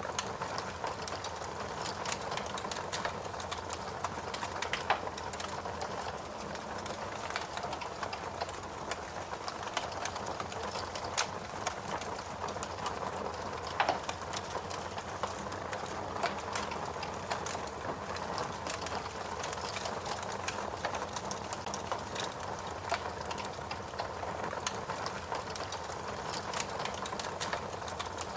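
Fire crackling steadily: a continuous bed of small pops and snaps with a few louder single pops scattered through.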